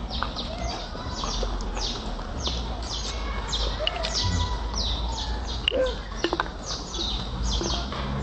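A bird calling over and over with high, short chirps that slide downward, about two or three a second.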